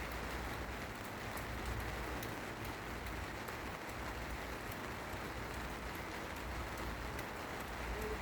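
Steady rain falling, an even hiss with sharp clicks of single drops scattered through it.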